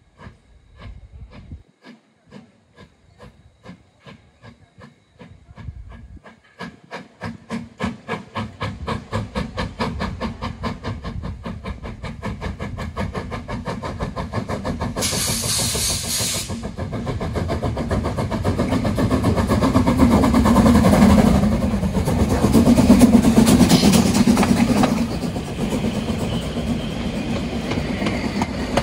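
Steam locomotive starting off and gathering speed: slow exhaust chuffs quicken into a fast, steady beat and grow louder. A short sharp burst of steam hiss comes about halfway through.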